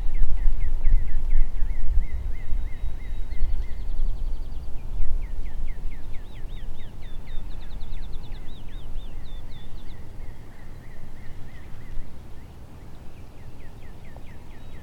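Songbirds singing in runs of quick repeated chirping notes, at least two birds overlapping at different pitches in the middle, over a low rumble that is loudest in the first few seconds and fades away.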